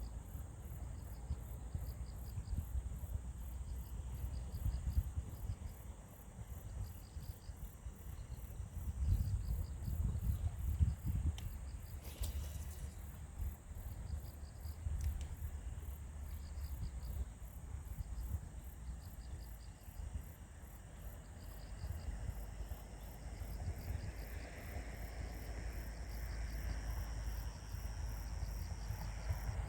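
Insects chirping outdoors in steady, evenly repeating pulses: a very high rapid pulsing and a lower chirp that comes in short runs. A low rumble sits underneath and swells around ten seconds in.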